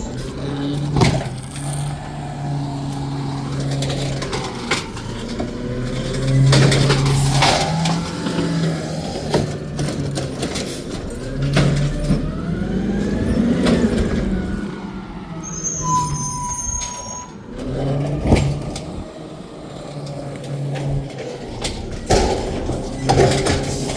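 Garbage truck working its collection route: the diesel engine running and revving up and down, with sharp bangs and knocks throughout and a short high squeal about two thirds of the way in.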